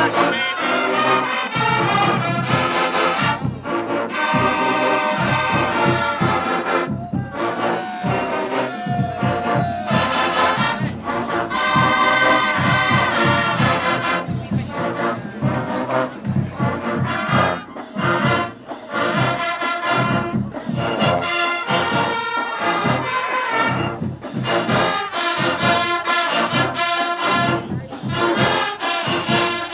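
Brass band music playing throughout, with horn-like melodies over a steady beat.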